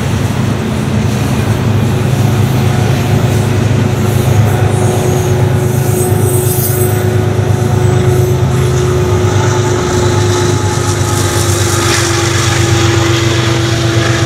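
Double-stack freight train rolling past with a diesel locomotive running in the train: a steady low rumble with a faint steady hum above it. The rumble eases about ten seconds in.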